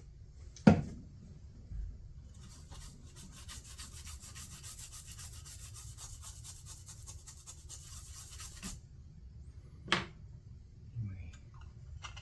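Rapid scratchy rubbing strokes for about six seconds, something scraped or scrubbed back and forth at the workbench. They sit between two sharp knocks, the first about a second in and the loudest.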